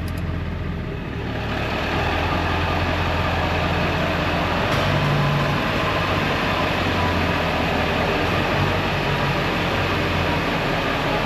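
1997 Ford F-350's 7.3 L Powerstroke turbo-diesel V8 running steadily. It grows louder about a second and a half in, then holds.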